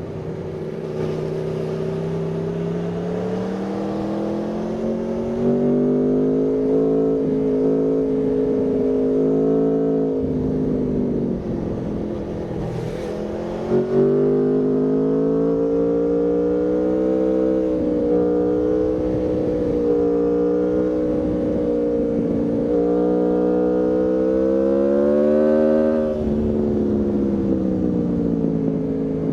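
Aprilia Tuono V4's V4 engine under way, its pitch climbing as the bike pulls. It backs off about a third of the way in, pulls again in one long rising run, and drops suddenly near the end as the throttle is closed.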